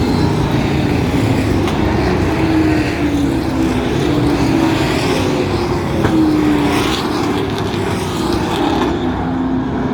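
Field of short-track racing pro trucks circling at caution pace, their engines running steadily, the engine notes wavering up and down as the trucks go by.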